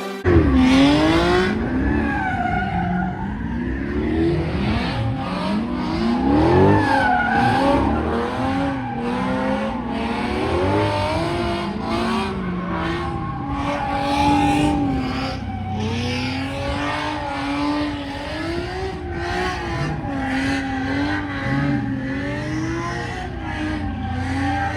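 Car engine revving hard again and again, its pitch climbing and dropping, with tyres squealing as the car spins its wheels. The sound starts abruptly.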